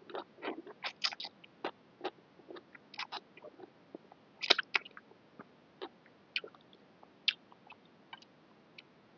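A person eating boat noodle soup with stewed pork close to the microphone. Wet chewing and irregular mouth clicks and smacks, a few a second, with a louder cluster about halfway through.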